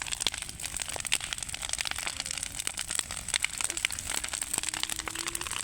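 Large wood bonfire crackling: a dense run of irregular snaps and pops over a steady hiss.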